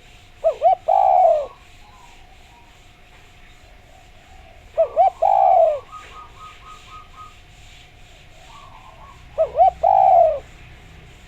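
Spotted dove (derkuku) cooing: three calls about four and a half seconds apart, each two short coos followed by a longer falling coo.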